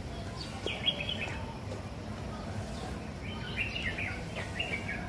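Small birds chirping in two short clusters of quick, high notes over steady outdoor background rumble, with a single sharp tap about a second in.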